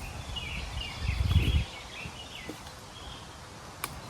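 Songbirds chirping repeatedly in the background, with a low muffled rumble about a second in and a sharp click near the end.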